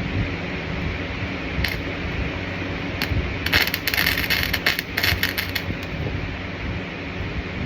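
Welding arc crackling in a short burst of about two seconds, a little after a couple of sharp clicks, over a steady electrical machine hum.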